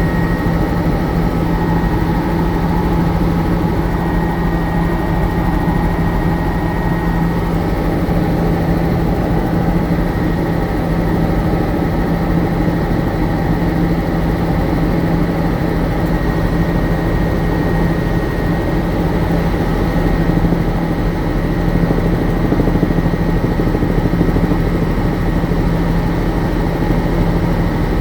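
Helicopter engine and rotors running, a loud steady drone with a constant low hum.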